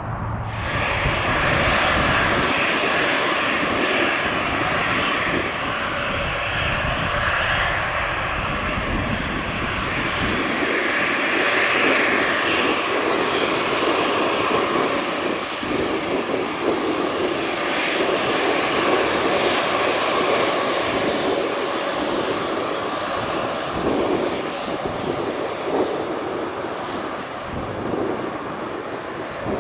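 Aircraft engines running loud and steady, coming in suddenly about half a second in. Gusty wind rumbles on the microphone, heaviest in the first third.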